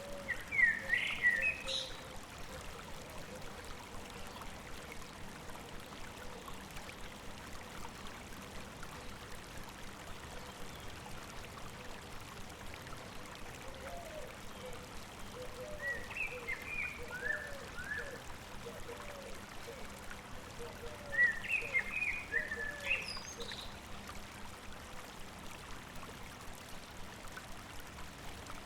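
River or stream babbling steadily, with a songbird singing short bright twittering phrases three times: at the start, about halfway through, and about three quarters in. Softer, lower short notes repeat in between.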